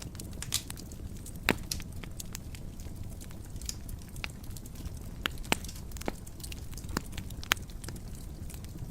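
Wood fire burning in a fireplace, crackling and popping irregularly over a low, steady rumble of flame, with a few louder pops.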